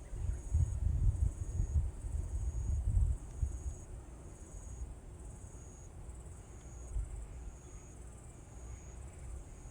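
An insect chirping in short, high-pitched pulses about once a second, steady and even. Low rumbling is heard during the first three seconds.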